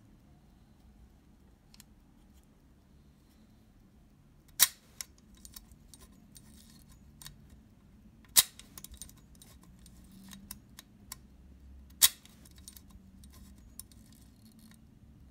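Three sharp clicks a little under four seconds apart, with lighter metallic clicking and rattling between them, as the Leica II D camera body is handled and turned over on the bench.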